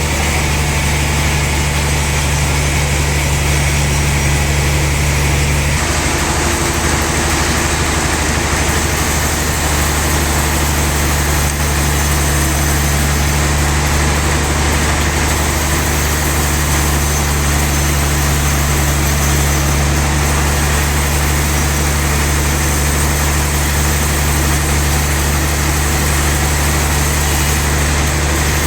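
Sawmill saw running steadily with a loud, even mechanical drone. About six seconds in its sound shifts, with a new hum joining and the low bands changing.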